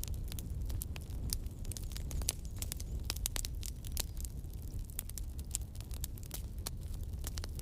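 Wood fire burning: irregular sharp crackles and pops over a steady low rumble of flames.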